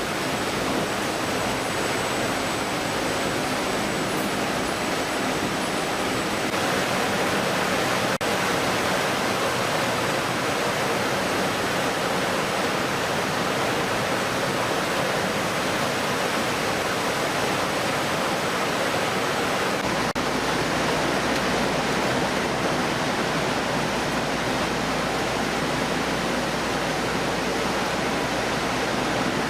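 Steady rushing noise like running water, with its tone changing abruptly a few times.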